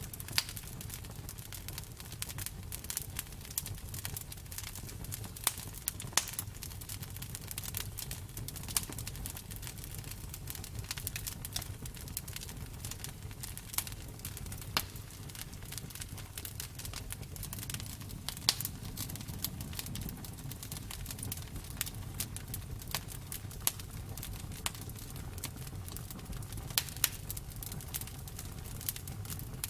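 Bonfire crackling: frequent irregular sharp pops and snaps over a low steady rumble of burning flames, a few pops much louder than the rest.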